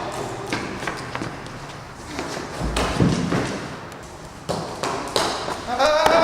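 Scuffling thumps and taps, with a heavier thump about three seconds in. Near the end a high, rising, pitched sound begins.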